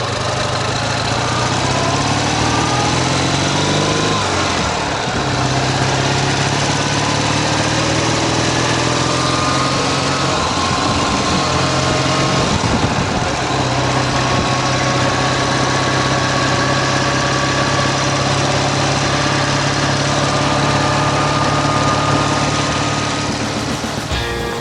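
Ural sidecar motorcycle's flat-twin engine pulling under load as the bike gets under way. Its pitch rises and drops back at gear changes about four and ten seconds in, then holds steady at cruising speed. This is the engine whose left cylinder the rider says knocks under load, typical of a piston pin or big-end bearing.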